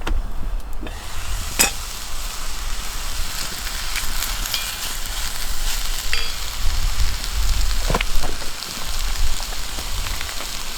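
Steady hiss with wind buffeting the microphone in low rumbles, and a couple of sharp cracks.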